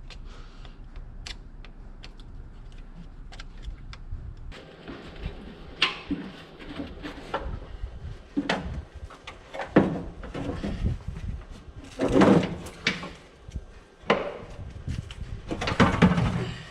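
Hand tools and metal parts on the skid steer's engine clanking and scraping: faint clicks at first, then from about four and a half seconds in a run of knocks and scraping clatters, the loudest around the middle and near the end.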